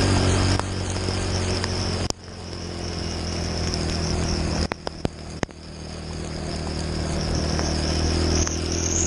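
Motorcycle engine running under way, with a high wavering buzz over it. About two seconds in the sound drops off suddenly, then builds steadily again, as with the throttle shut and opened back up.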